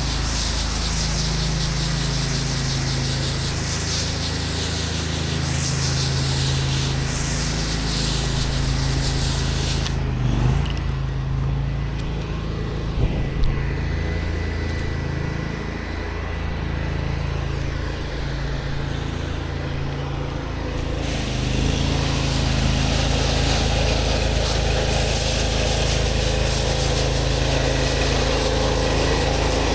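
Gas pressure washer engine running steadily, with the hiss of the water spray over it. The spray stops about ten seconds in and starts again about ten seconds later while the engine keeps running.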